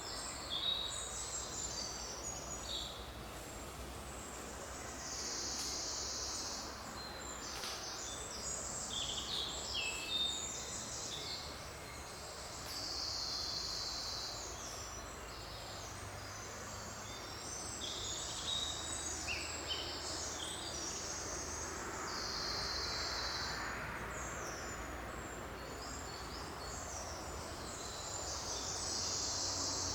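Forest bird chorus: many birds chirping and trilling at once, overlapping throughout, with a few longer high buzzing trills, over a steady low background noise.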